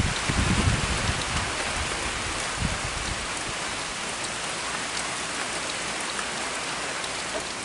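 Steady rain falling: an even hiss with scattered drop ticks. A low rumble sits under it for about the first second.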